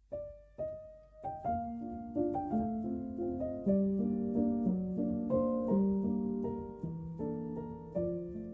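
Background piano music, slow and gentle. It opens with a few single notes, then moves into sustained chords.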